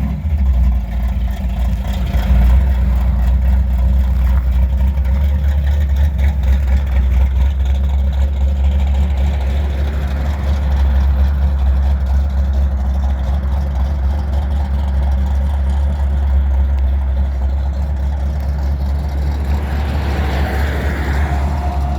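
G-body Chevrolet Monte Carlo engine with a big camshaft, idling loudly and steadily.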